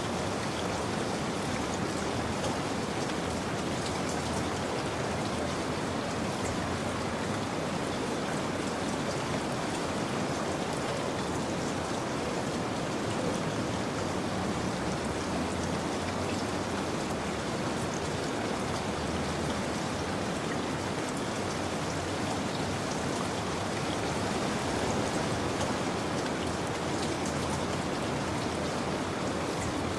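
Steady rain falling, an even wash of drops pattering on a surface.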